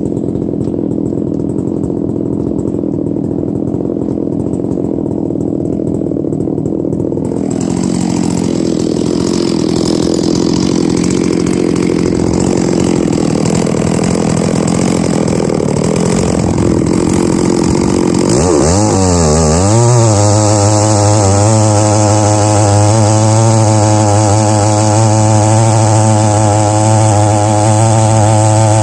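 Large-displacement chainsaw on a chainsaw mill milling oak. It runs low at first, grows louder and fuller after several seconds, and about two-thirds through rises quickly in pitch to a steady full-throttle note.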